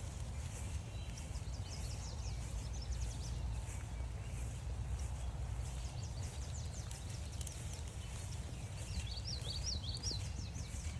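Songbirds singing on a forest trail: a quick run of high notes about two seconds in and a string of short rising notes near the end. Under them are steady walking footsteps and a low rumble.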